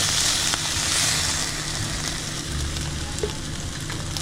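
Chicken breasts sizzling as they fry in a pan, a steady hiss that is strongest in the first second or so and eases a little after.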